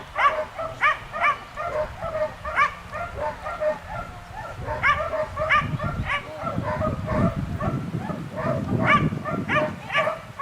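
Dog barking repeatedly in short, high calls that come in clusters of two or three.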